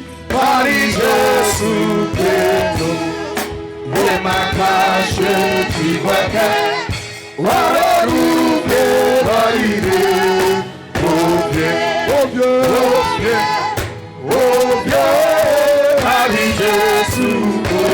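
Gospel worship music: voices singing together over an instrumental accompaniment, in phrases with short breaks between them.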